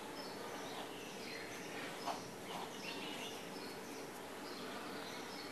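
Faint, scattered high bird chirps over a low steady background hum.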